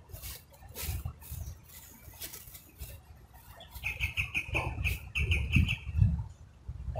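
A bird calling in a fast series of short, high, repeated notes, about five a second, beginning a little after midway and lasting about two seconds. Scattered rustling and clicking come before it, over a low rumble.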